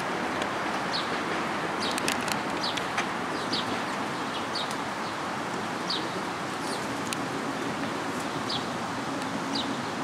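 A small songbird calling, short high chirps repeated about once a second over a steady background hiss.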